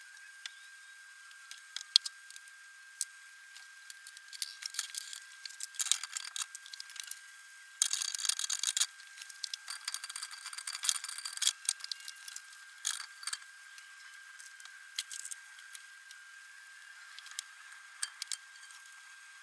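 Metal clinks, rattles and scrapes of hand tools and exhaust parts being handled, in scattered clicks with a few denser flurries in the first half, over a steady faint high whine.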